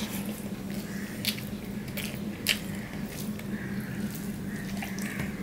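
Close-miked eating sounds: wet chewing and lip smacks with a few sharp mouth clicks as a mouthful of rice and kochu shak (taro leaves) is eaten. A steady low hum runs underneath.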